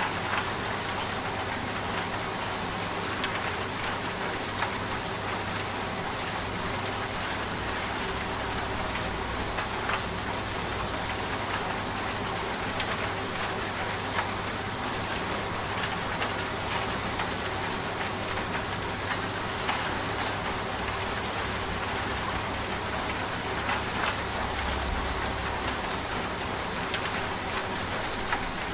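Steady rain with scattered drops, layered over the low, steady hum of a running washing machine.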